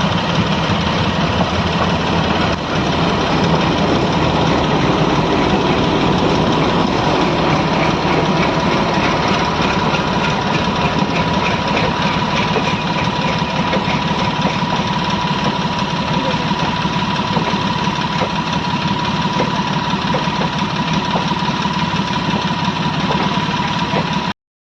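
An engine running steadily, with a constant whine held on one pitch over it and a faint quick ticking partway through. It cuts off abruptly at the very end.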